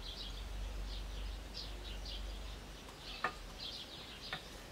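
Birds chirping in short, repeated calls, with two sharp clicks about three and four seconds in.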